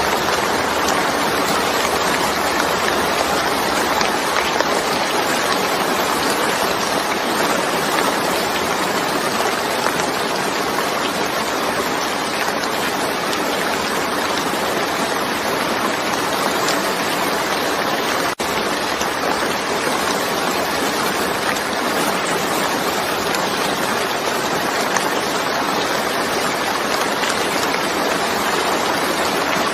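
Heavy rain falling, a steady even hiss, with a momentary break about two-thirds of the way through.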